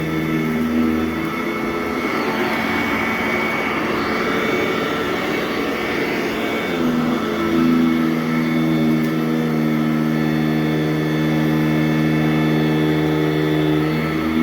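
Sanitaire SC899 commercial upright vacuum cleaner running on carpet, a steady motor hum. From about two seconds in the tone turns rougher and noisier, then settles back to a steady hum near seven seconds.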